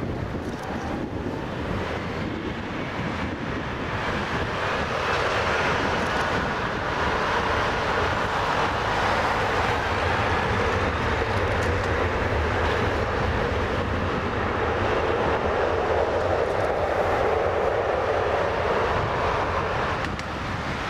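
Jet airliner passing low overhead: a broad roar builds about four seconds in, holds with a faint whine sliding in pitch, and eases off near the end.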